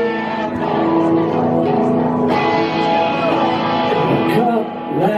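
A live rock band playing a song's instrumental intro, led by electric guitar chords.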